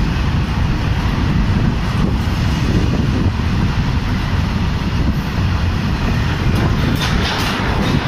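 Loaded freight train's covered wagons rolling past at speed: a loud, steady rumble of steel wheels on rail, with a few sharp clicks about seven seconds in.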